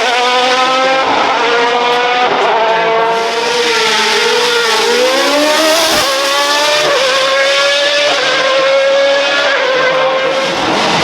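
Hill-climb race car accelerating hard away from the start line, its engine pitch climbing and then dropping at each upshift, with several gear changes in a row.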